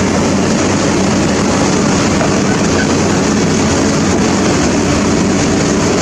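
Steady drone of a heavy engine running without a break, with a constant low hum.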